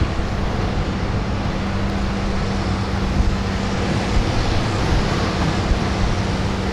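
Farm tractor engine running at a steady, unchanging pitch with a loud, wide noise.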